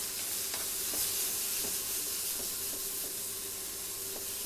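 Diced root vegetables and bacon sizzling steadily as they fry in fat in a frying pan, with a few faint clicks as the pieces are moved about in the pan.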